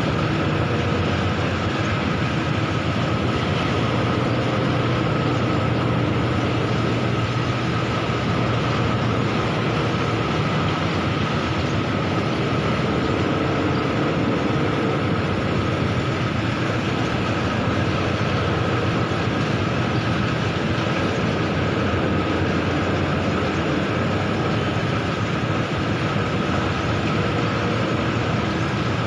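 Bucket-wheel stacker-reclaimer running, a steady heavy-machinery noise with a faint constant high whine through it.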